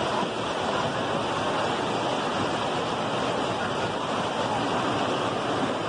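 Steady rushing of heavy rain and floodwater, an even wash of water noise.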